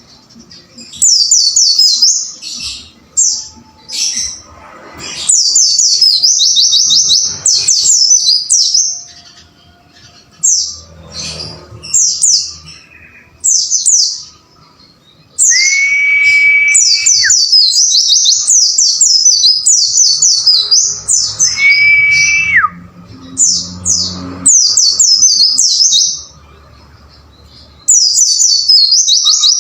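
White-eye (pleci) song: rapid bursts of high, thin, quickly repeated chirping notes in phrases with short gaps between them. Twice, at about the middle and two-thirds of the way through, a long steady whistle sounds lower down beneath the chirping.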